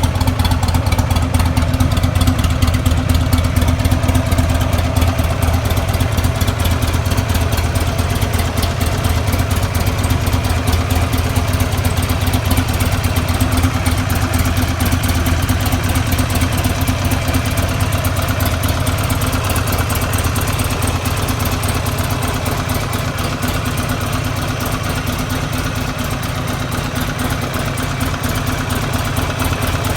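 2007 Buell XB12SS's air-cooled 1203 cc V-twin idling steadily through its exhaust, a little quieter in the second half.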